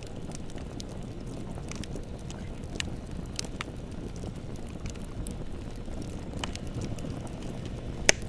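Bonfire burning with a steady low rumble and scattered sharp crackles and pops, one louder pop near the end.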